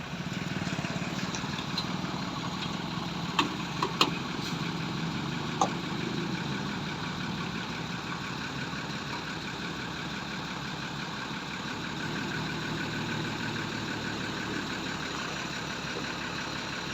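A vehicle engine idling steadily, with a few sharp clicks or knocks between about three and six seconds in.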